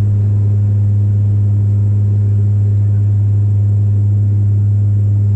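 Bombardier Dash 8 Q400 turboprop heard from inside the passenger cabin in flight: its six-bladed propellers make a loud, steady low drone with a fainter hum at twice the pitch above it.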